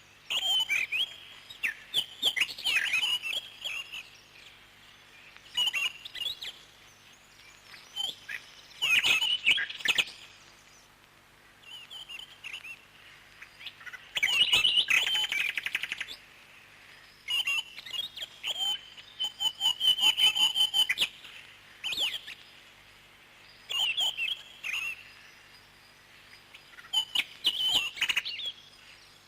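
Parrots chirping in short bouts every few seconds, with two longer, buzzing trills near the middle.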